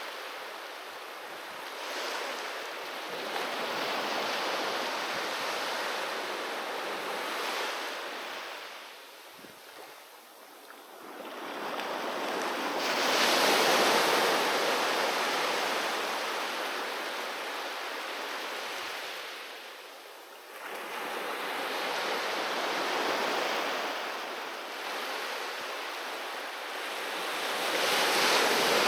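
Sea waves breaking and washing up a shore, the surf swelling and ebbing every several seconds. It drops to quieter lulls about ten and twenty seconds in, and is loudest at a big swell around the middle.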